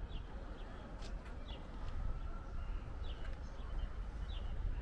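A small bird chirping: short, high, slightly falling notes repeated about once a second, over a steady low rumble.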